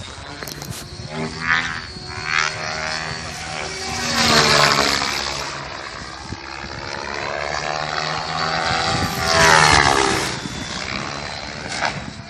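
T-Rex RC helicopter flying hard, its rotor and motor whine rising and falling in pitch as it manoeuvres and passes. It swells loudest twice, about four seconds in and again near ten seconds.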